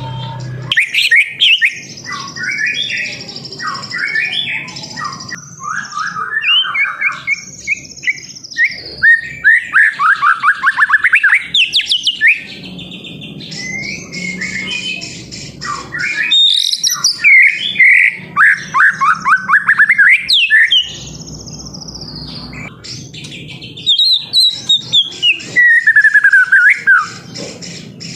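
White-rumped shama (murai batu) singing a loud, varied song of clear whistles broken by fast runs of rapidly repeated notes, the 'trotol' style, in several bursts with short pauses between them.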